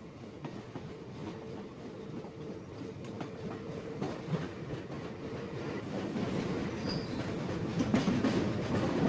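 Mauritanian iron ore freight train running on the rails, with a continuous rattle and clatter of wagons. It grows steadily louder over the seconds.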